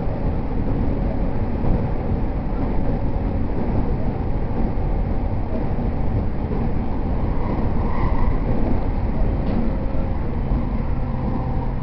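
Interior running noise of an E231 series commuter train: a steady rumble of wheels on rails and the car body, with faint tones from the running gear.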